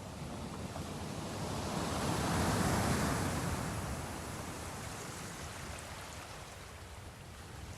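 Sea waves washing: one surge builds, peaks about three seconds in, then slowly recedes into a steady rush of water.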